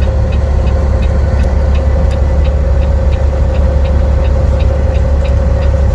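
Semi truck's Caterpillar C-15 diesel idling steadily, heard inside the cab, with the turn signal ticking evenly about three times a second.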